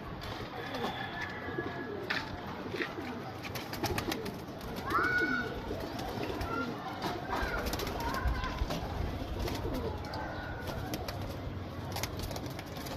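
Teddy pigeons cooing, with short higher chirps and scattered clicks among them.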